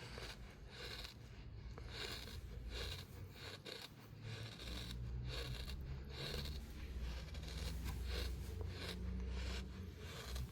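Crunchy compacted sand being cut and scraped with a tool in repeated strokes, a bit under one a second. A low rumble joins underneath from about halfway in.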